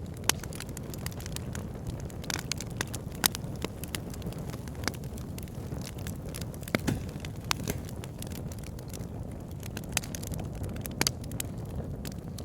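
Campfire burning, with a steady low roar of flame and irregular sharp crackles and pops from the burning wood.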